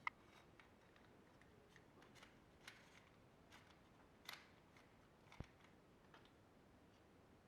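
Faint, scattered small clicks and taps, about half a dozen, from the parts of a De'Longhi Nespresso capsule machine being handled and fitted back together during reassembly; the sharpest click comes about five seconds in.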